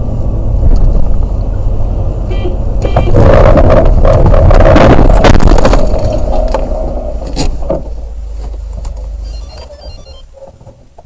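Car driving, with steady low road and engine rumble as picked up by a dashcam. It grows louder and rougher from about three to six seconds in, with several sharp knocks, then fades off near the end.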